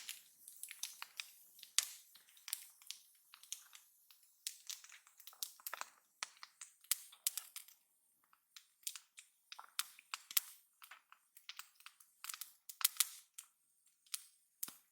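Wood fire crackling, with irregular sharp pops and snaps, some in quick clusters, and near silence between them.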